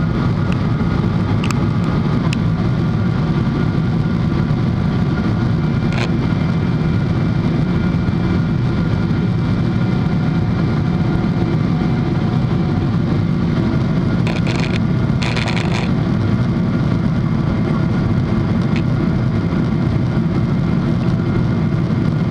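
Boeing 777-300 cabin noise: the steady drone of the jet engines and airflow, holding an even level, with two short hisses past the middle.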